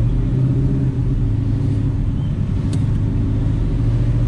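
Car engine running steadily at low cruising speed, a deep even rumble with no revving.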